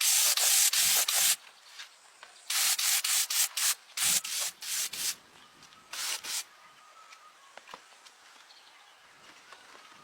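Hand sanding: quick back-and-forth rasping strokes in three runs, the longest with about three to four strokes a second, separated by short pauses.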